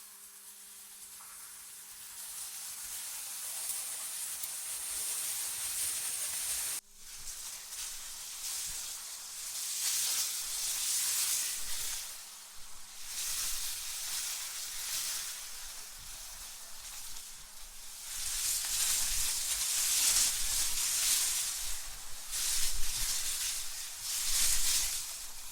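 AI-generated wind ambience: a high, hissing rush that swells and fades in gusts, with a sudden break about seven seconds in.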